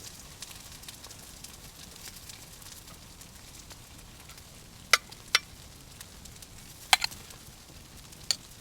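Wood campfire burning with a steady low hiss and five sharp pops in the second half.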